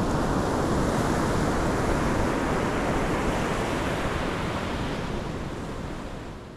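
Pacific Ocean surf: a steady wash of breaking waves that fades away over the last second or so.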